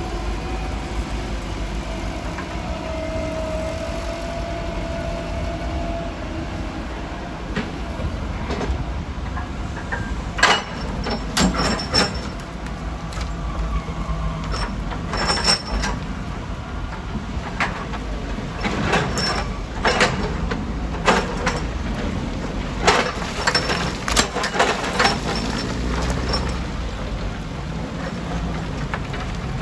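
Heavy diesel machinery running steadily under load, joined from about ten seconds in by a string of sharp clangs and knocks, with brief metallic ringing, as rock strikes steel.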